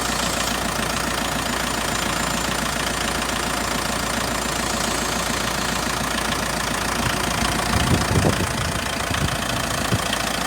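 Mitsubishi Triton 2.5-litre four-cylinder diesel engine idling steadily, with a few brief low bumps about eight seconds in.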